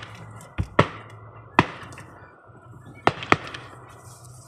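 Fireworks going off: about five sharp bangs at uneven spacing, two close together, then a single one, then another close pair.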